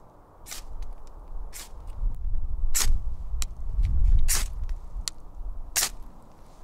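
Spine of a Silky folding saw scraped hard down a ferro rod five times, about once every second and a half, each stroke a short, sharp rasp, with a low rumble underneath.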